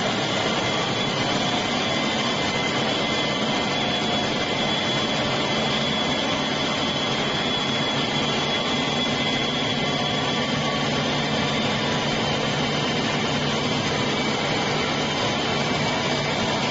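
Three-phase decanter centrifuge (tricanter) running steadily at speed: an even machine rush with a low hum and a faint high-pitched whine, while it separates beef tallow into oil, water and solids.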